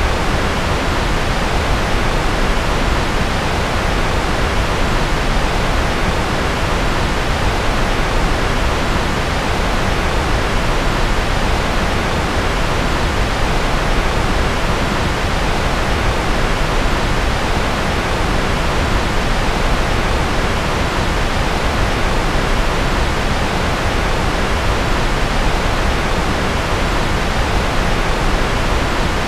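Steady generated white noise: an even, unchanging hiss, fuller in the low end than the highs.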